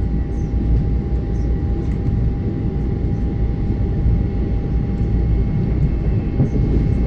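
Long Island Rail Road train running by: a steady, loud rumble with a thin, constant whine over it.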